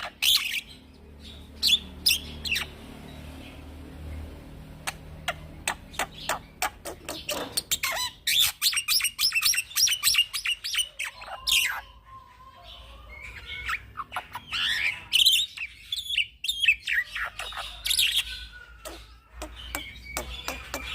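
Young black-winged myna (jalak putih) singing in rapid runs of chirps, clicks and whistles, broken by short pauses.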